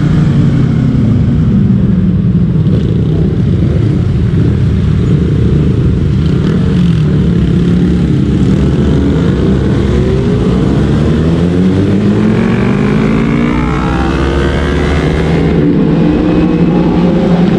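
Motorcycle engine running on the move, its pitch falling early on and then rising in several successive sweeps as it accelerates through the gears, over a constant low rumble.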